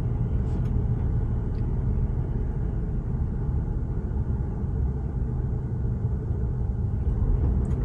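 Truck engine running with a steady low rumble, with a few faint ticks.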